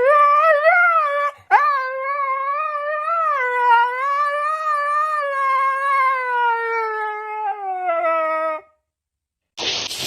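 A dog howling: a short howl, then after a brief break a long howl of about seven seconds that slowly sinks in pitch before stopping.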